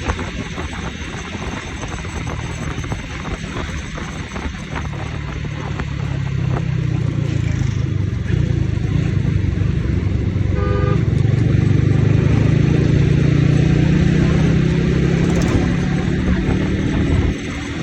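Motorcycle engine running while riding, with wind and road noise; it grows louder about a third of the way in, holds steady, then drops off sharply near the end. A short beep sounds about halfway through.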